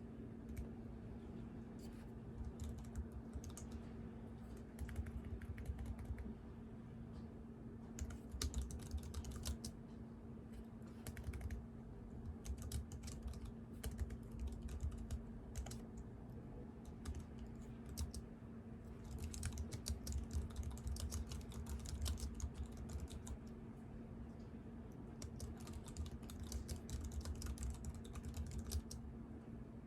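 Typing on a computer keyboard in bursts of rapid key clicks with short pauses between them, over a steady low hum.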